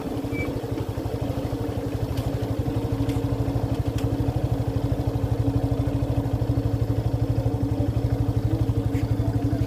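Motorcycle engine running at low revs as the bike rolls slowly, a steady, even beat of firing pulses that grows slightly louder.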